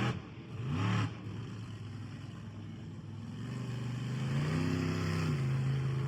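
Monster truck engine running, its pitch climbing a little past halfway through and then holding at the higher speed.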